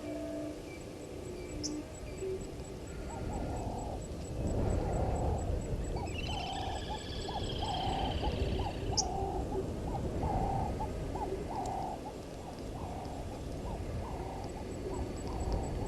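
A bird calling a long series of evenly spaced, hoot-like notes, roughly one or two a second. In the middle, a higher, rapid chattering call from another bird joins it for a few seconds, over a low background rumble.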